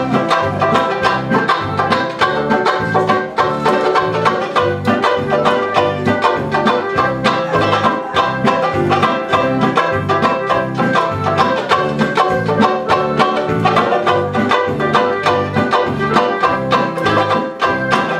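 Instrumental break of a sung comic song: fast, rhythmic strumming on banjo-like plucked strings with a steady beat, and no voice.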